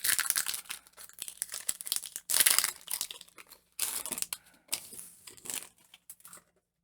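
Foil booster pack wrapper crinkling and tearing as it is handled and opened, in irregular crackly spurts that stop about six and a half seconds in.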